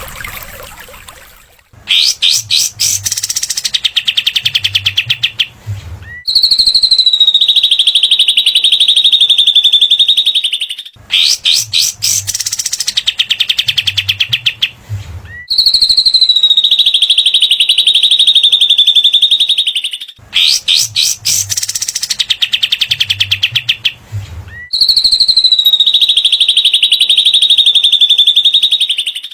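Looped bird-training recording of a small songbird: a fast rattling trill of clicks followed by a long, high, slightly falling buzzy note, the pair repeating about every nine seconds, three times.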